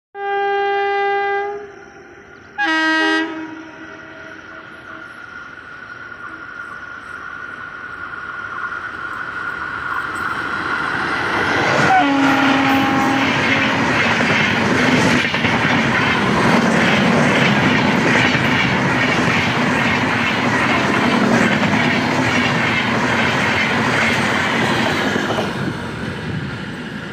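An Indian Railways express hauled by a WAP-4 electric locomotive passing at high speed. It opens with two horn blasts from the approaching locomotive, then a rumble that grows louder as it nears, and a short horn note as it draws level. The coaches' wheels then clatter rhythmically over the rail joints for over ten seconds and fade as the train moves away.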